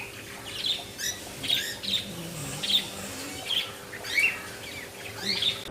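A flock of aviary birds, parrots, lovebirds and small finches, chirping and squawking in short irregular calls, several a second. A faint steady hum runs underneath.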